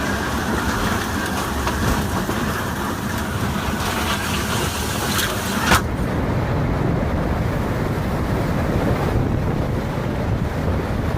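Hurricane wind noise on the microphone, a steady rushing with no words. A sharp click comes a little past halfway, after which the sound turns duller and lower.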